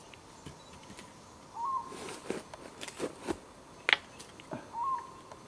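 A bird calls twice, about three seconds apart, each call a short whistle that rises and then holds a note. Scattered scrapes and sharp clicks sound between the calls, the sharpest just before the second call.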